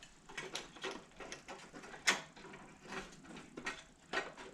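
Light, irregular clicks and taps of small metal mower carburetor parts and linkage being handled and fitted, with one sharper click about two seconds in.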